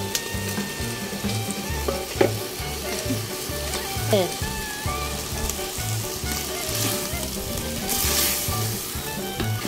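Chicken frying and sizzling in a metal pot, stirred with a wooden spoon that scrapes through it and knocks against the pot a couple of times. Background music with a steady beat runs underneath.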